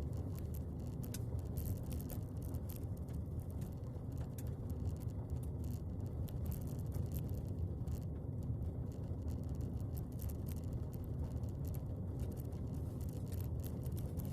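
Steady low rumble of a vehicle on the move, with faint scattered rattling clicks.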